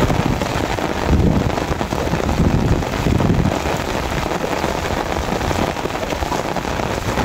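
Heavy rain falling steadily on a flooded field and on an umbrella just overhead.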